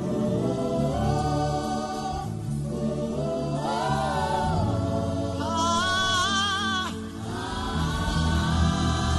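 Gospel worship humming: a voice hums a slow, wordless melody with wavering, vibrato-laden held notes over a sustained low backing.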